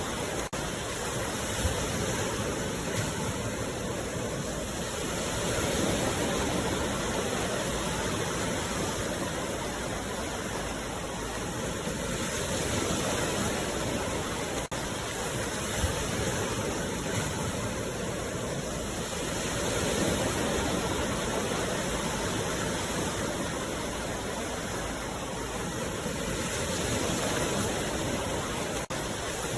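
Sea waves washing onto the shore: a continuous surf wash that swells and ebbs about every six to seven seconds.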